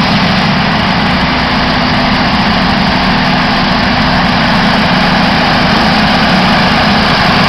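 Heavy-haul truck diesel engine running steadily and loudly, a constant low drone under a wide, even noise.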